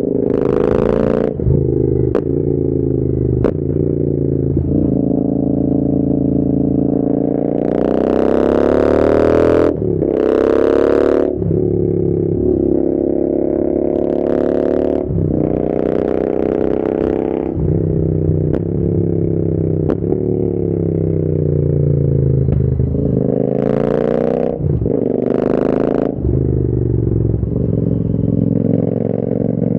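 Royal Enfield Interceptor 650's 648 cc parallel-twin engine through an aftermarket AEW te101 exhaust, riding under load, its pitch climbing and dropping again and again as the throttle opens and gears change.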